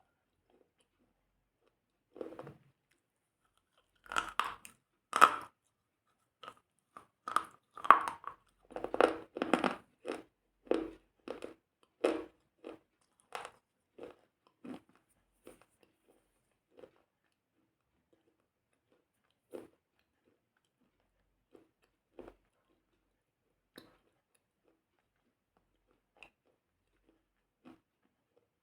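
Crunchy chewing and biting: a quick run of crunches, about two a second, that thins out to an occasional crunch in the second half.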